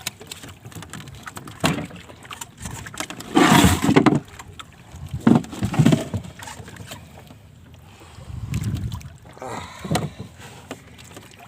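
Water splashing and knocking around a small fishing boat in irregular bursts, the loudest lasting under a second about three and a half seconds in.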